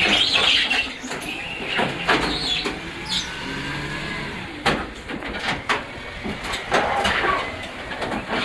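A vehicle running, its pitch rising gently around the middle, with several sharp knocks and clatters.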